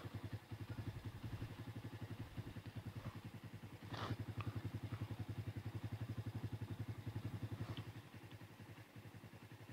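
Motorcycle engine idling with an even, rapid exhaust pulse, a little louder for a few seconds in the middle; a single sharp click about four seconds in.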